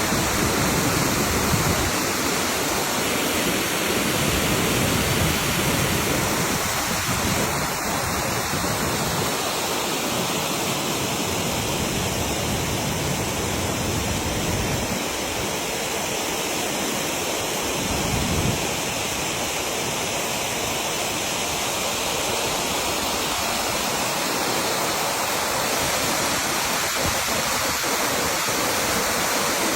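Waterfall: a steady, dense rush of falling water that holds at an even level throughout.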